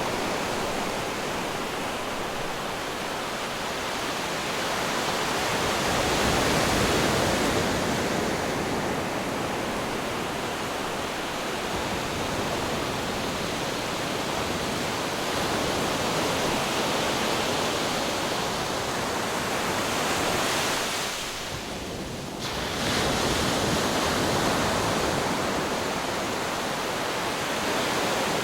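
Ocean waves breaking on rocks: a continuous rush of surf that swells and eases, with a brief lull about two-thirds of the way in before it surges back.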